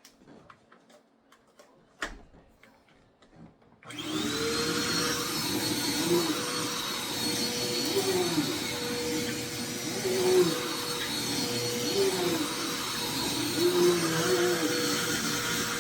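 Vacuum cleaner switched on about four seconds in, after a few light clicks and a knock, then running steadily with a high whine; its sound swells and dips about every two seconds as it is pushed back and forth.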